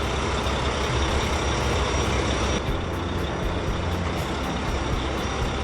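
Heavy-vehicle engine sound effect from a cartoon, running steadily with a low, even rumble.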